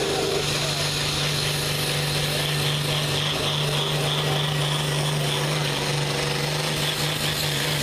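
Pro farm pulling tractor's engine running hard at steady high revs, one held low pitch over a wide rush of exhaust and mechanical noise.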